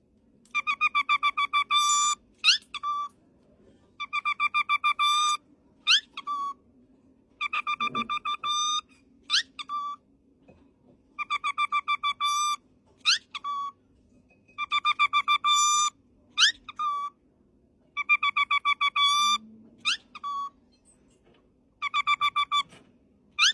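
A parrot whistling the same phrase over and over, about every three and a half seconds: a fast trill of about ten even notes, then a quick upward-sliding whistle and a short final note.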